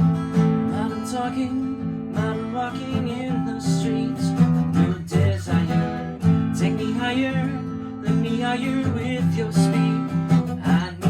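Acoustic guitar strummed and plucked, playing a eurobeat tune.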